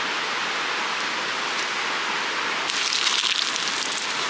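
Pork cutlet deep-frying in hot oil, a steady sizzle that grows brighter and more crackly about three seconds in. The fire under the pan is too strong, so the cutlet is frying fast and browning hard.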